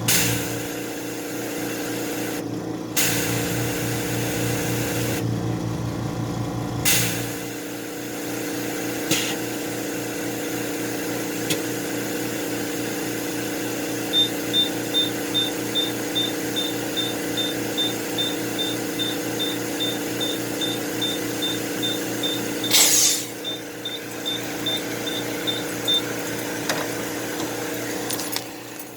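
Tire air machine's compressor running with a steady hum, with short hisses of air. From about halfway through comes a run of high electronic beeps, about two a second, lasting some twelve seconds.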